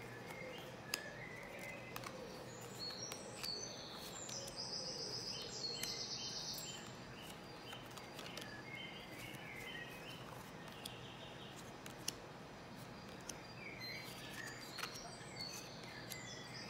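Birds chirping in the background, in short runs of calls, with a few sharp clicks of tarot cards being handled and laid onto a pile.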